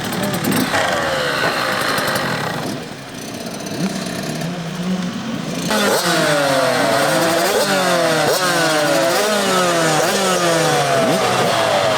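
Several motocross bikes racing, with engines revving hard. From about halfway through, their pitch climbs and drops again and again as the riders accelerate through the gears.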